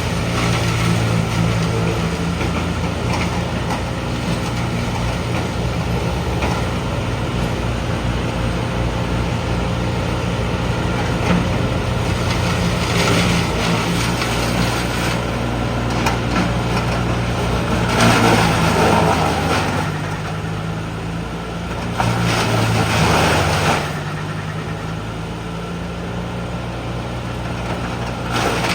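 Heavy diesel machinery engine running steadily, with two loud rushing surges of noise partway through.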